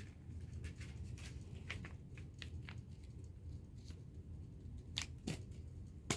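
Paper and tape being handled while building a paper puppet: a run of small crinkles, rustles and clicks, with a couple of sharper snaps near the end.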